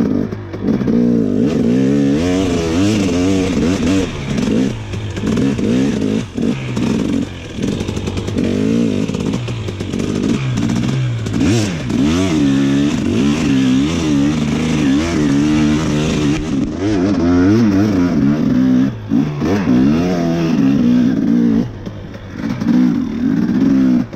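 Dirt bike engine revving up and down repeatedly as the rider works the throttle on a second attempt at a hill climb, with a short dip in revs near the end.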